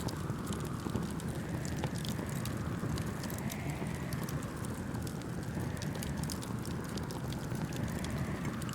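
Wood fire crackling, with frequent small sharp pops and snaps over a steady low rush that swells slowly every few seconds.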